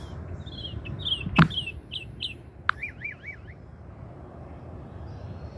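Small birds chirping: a quick run of short, high, falling notes, a single knock about a second and a half in, then three quick wavering notes a little after, over a steady low outdoor rumble.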